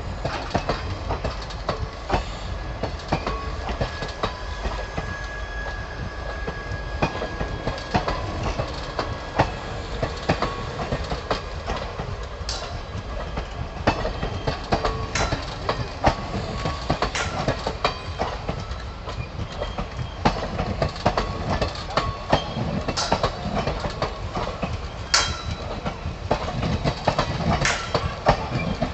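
Train running on the rails: a steady rumble with the wheels clattering over the track and sharp metallic clanks every few seconds.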